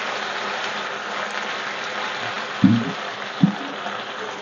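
Sauce-coated onion and capsicum sizzling in a hot metal wok as they are stirred with a silicone spatula: a steady hiss, with two soft knocks a little past halfway.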